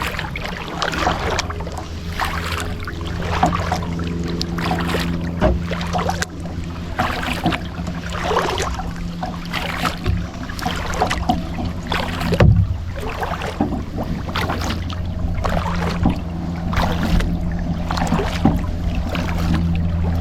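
Kayak paddle strokes dipping and splashing in water, roughly one a second, over a steady low hum.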